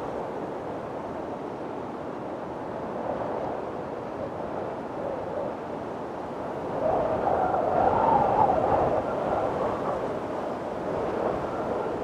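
Strong wind blowing in a steady rush, swelling into a louder gust about two-thirds of the way through, with a faint high whistle near the end.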